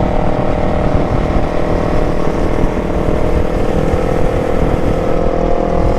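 Motorcycle engine running steadily at riding speed, its note easing slightly lower near the end, over heavy wind rumble on the microphone.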